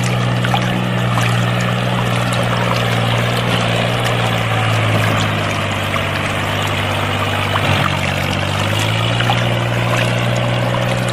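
Water pouring and splashing steadily from a miniature model water pump, under a continuous low hum that shifts pitch about eight seconds in.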